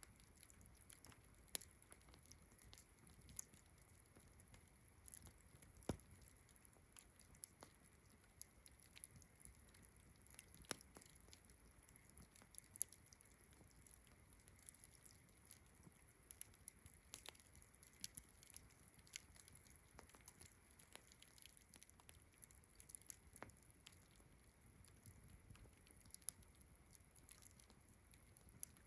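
Campfire crackling: irregular sharp pops and snaps from the burning wood, over a faint steady chorus of distant frogs and crickets.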